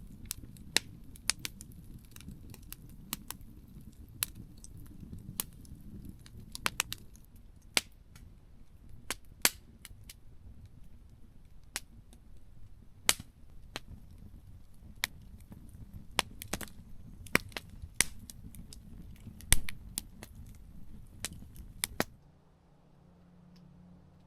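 Campfire crackling: sharp, irregular pops and snaps of burning wood over a low steady rumble. It cuts off abruptly near the end.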